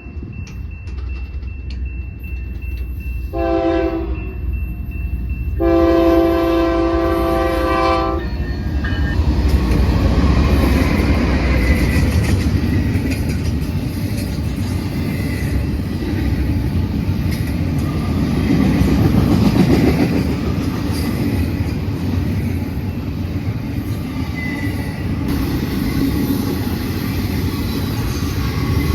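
Freight locomotive air horn sounds a short chord blast and, about two seconds later, a longer one. Then the BNSF freight train rolls past with a steady heavy rumble and the clatter of cars on the rails.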